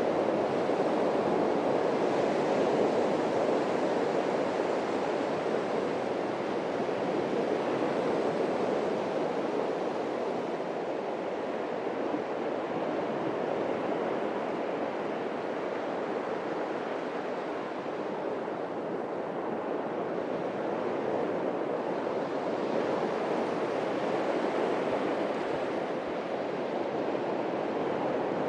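Atlantic surf breaking and washing on a beach: a continuous rushing wash of waves that swells and eases slowly, a little softer around the middle.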